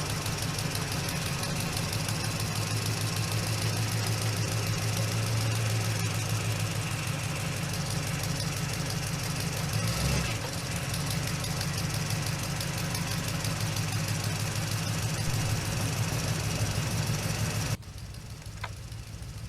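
A motor running steadily with a fast, even rattling pulse, cutting off abruptly near the end.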